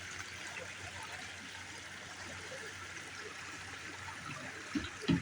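Steady rush of flowing stream water. Two soft low bumps come near the end.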